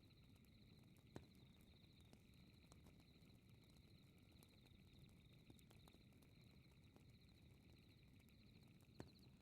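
Faint crackling fireplace: a steady low rumble of burning wood with scattered pops, the two loudest about a second in and near the end. Under it, a steady high pulsing chirp of night insects.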